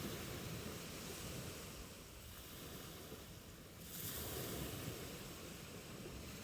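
Ocean waves washing onto a beach: a steady surf hiss with one wave swelling up about four seconds in.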